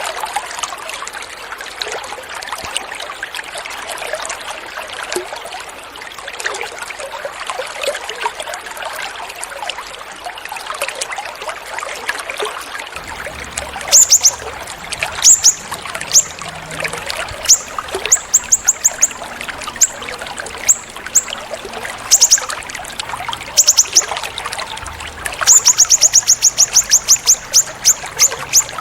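Water trickling steadily. About halfway through, a songbird starts calling with sharp, very high, short notes in scattered bursts, ending in a fast run of repeated notes near the end.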